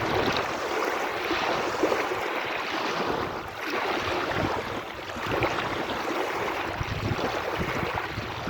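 Sea waves washing ashore: a steady rush of surf that swells and eases every few seconds.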